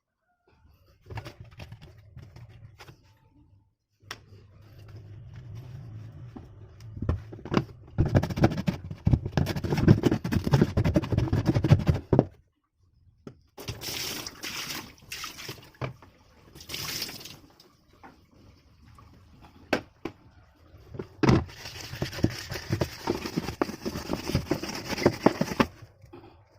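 Water churning and sloshing in a twin-tub washing machine's wash tub, in several runs of a few seconds each with short pauses and knocks between them.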